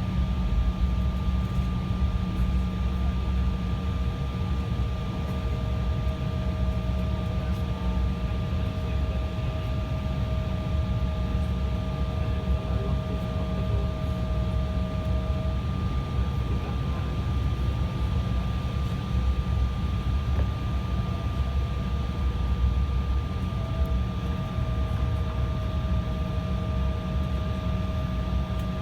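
Embraer airliner's jet engines and airflow making a steady, low drone with a few faint constant whines, heard from inside the cabin in flight after take-off.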